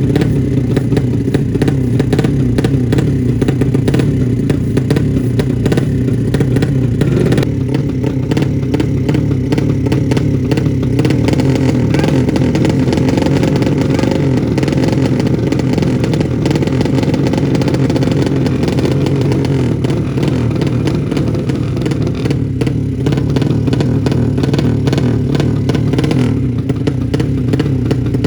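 200 cc drag-bike motorcycle engine running steadily, with its sound turning brighter about seven seconds in and easing back again a little after twenty seconds.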